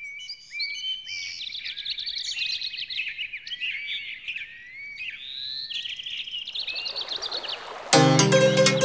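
Birds singing, with many quick chirps and whistled glides, while a hiss swells near the end. About eight seconds in, a folk band starts playing loudly.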